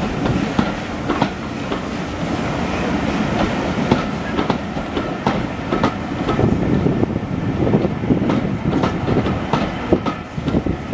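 Railway carriages rolling past, their wheels clicking irregularly over rail joints above a steady rumble.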